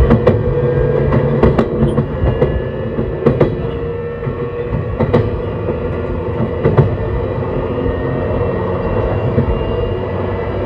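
JR East E131 series 600 subseries electric train running, heard from on board: a steady motor hum under running noise, with sharp clicks at irregular intervals from the wheels passing over rail joints.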